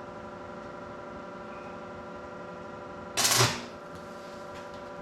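Lincoln AC225 stick welder's transformer humming steadily at full output. About three seconds in comes a brief, loud crackle of about half a second as the electrode strikes an arc.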